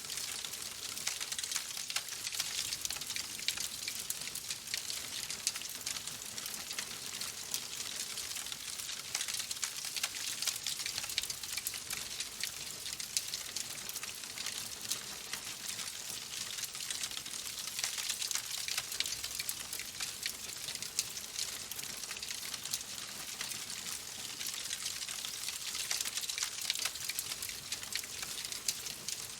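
Wood fire crackling in a fireplace: a dense run of small, irregular pops and snaps over a steady hiss.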